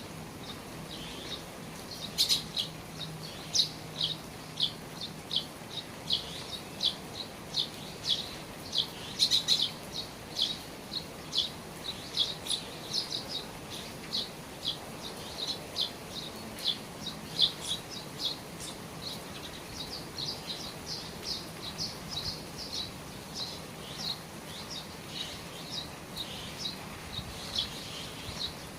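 Birds chirping over steady rain: short high chirps, about two a second, keep going against a soft even hiss of rain.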